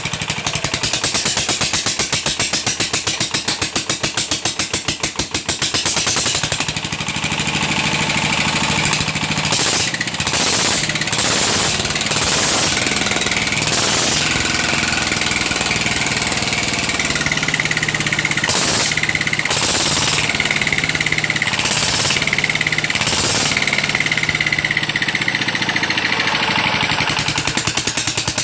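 R175 single-cylinder diesel engine running with a rapid, hard, regular knock; its injector nozzle has been sticking. Short noisy bursts come and go over the running from about ten seconds in.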